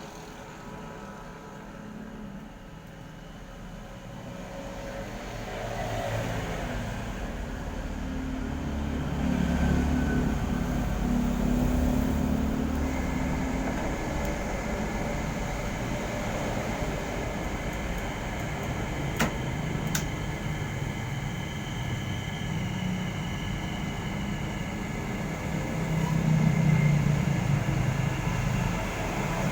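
Sharp single-tub washing machine motor running with a steady hum that builds over the first several seconds, with a sharp click about two-thirds of the way through.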